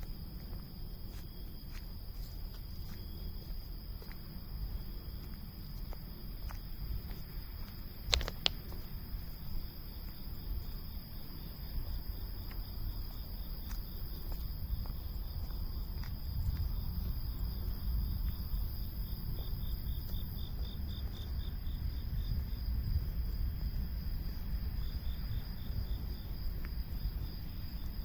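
Cicadas singing: a steady high-pitched buzz, with a second, rapidly pulsing call that comes in about a third of the way through, drops out, and returns briefly near the end. A single sharp click about eight seconds in, over a low rumble.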